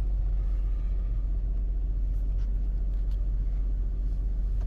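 Engine of a 1998 Mazda MPV idling steadily, heard from inside the cabin as a low, even rumble, with a few faint clicks around the middle.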